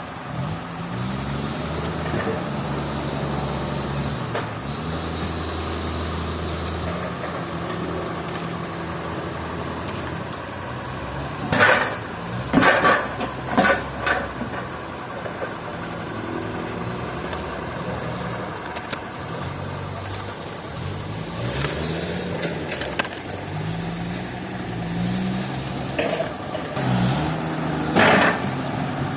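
An engine running, its pitch rising and falling as it revs up and down, with a few loud clattering bursts in the middle and another near the end.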